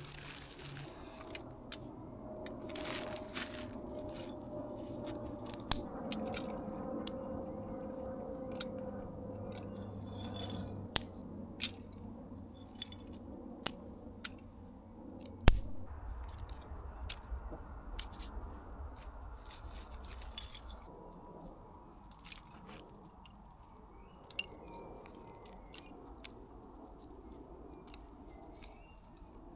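Small campfire catching from a fire starter, crackling with scattered sharp pops, the loudest about fifteen seconds in.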